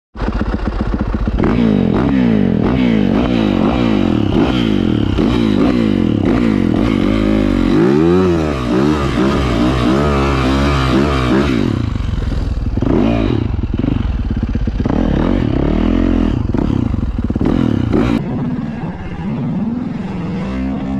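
Yamaha YZ450F's single-cylinder four-stroke engine running and being revved up and down over and over, an engine that had flooded being cleared; the revs settle lower and a little quieter near the end.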